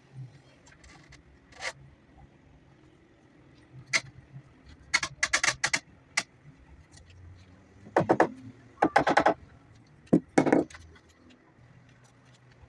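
Workshop handling noises: scattered knocks, with short bursts of rattling clatter about five seconds in, again around eight to nine seconds, and once more near ten and a half seconds.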